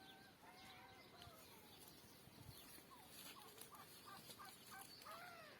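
Faint bird calls: thin whistled notes, a quick run of short repeated notes in the middle and a couple of arching calls near the end.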